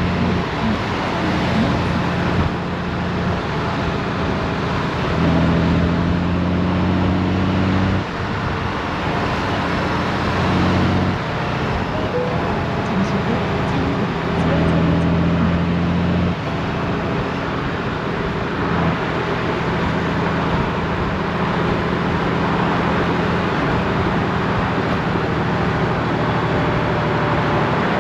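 Honda GoldWing DCT's flat-six engine running on the move, with wind and road noise. The engine note swells and drops in steps several times.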